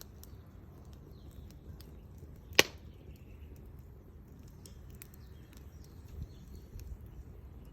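Burning firewood crackling faintly, with one sharp, loud pop about two and a half seconds in.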